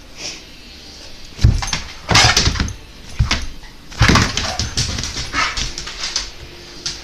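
A pet dog making noises close to the microphone: several loud, noisy bursts, the strongest about a second and a half in and about four seconds in, with smaller clicks between.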